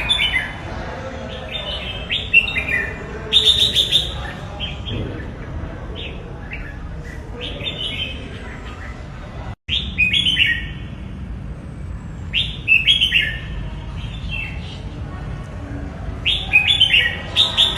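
Red-whiskered bulbul singing: short phrases of quick, downward-sliding whistled notes, repeated every second or two over a steady low background hum. The sound cuts out for an instant about halfway through.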